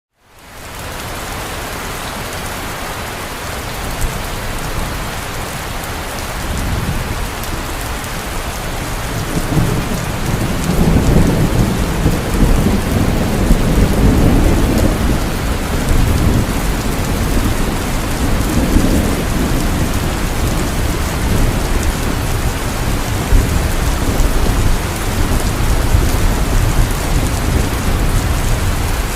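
Heavy rain falling steadily, fading in at the start. About ten seconds in, a low rumble of thunder builds and keeps rolling.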